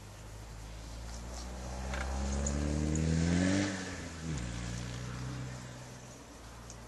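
A motor vehicle engine revving up, rising steadily in pitch over about two seconds, then dropping off sharply about four seconds in and settling back to a low hum.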